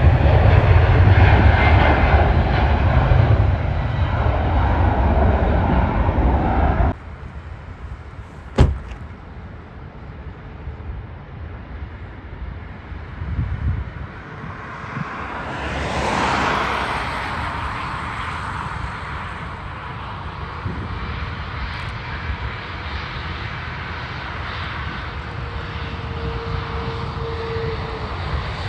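Jet airliner engine noise, loud at first and cutting off abruptly about seven seconds in. After a sharp click, a quieter jet swells up near the middle and settles into a steady distant drone.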